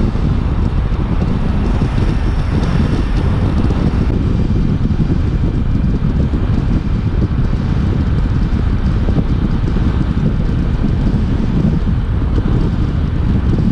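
Suzuki V-Strom 800DE's 776 cc parallel-twin engine running at a steady cruising speed, mostly buried under loud, steady wind rushing over the microphone.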